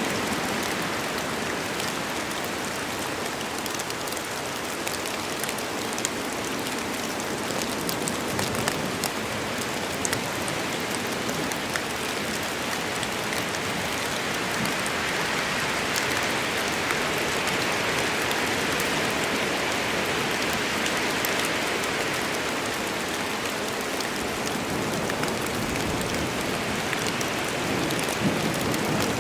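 Steady heavy rain falling in a forest, a dense even hiss of rain with countless small drop ticks.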